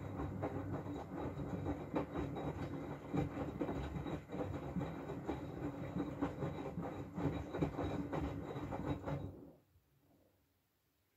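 Miele W433 front-loading washing machine drum turning during the oscillating rinse, with wet laundry and water sloshing and tumbling over a steady motor hum. The tumbling stops abruptly about nine and a half seconds in as the drum pauses.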